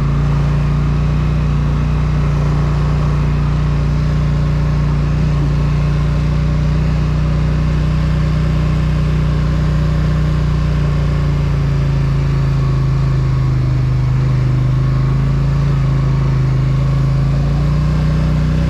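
Polaris Sportsman ATV engine running steadily under way. Its pitch drops a little about two-thirds of the way through and climbs again near the end.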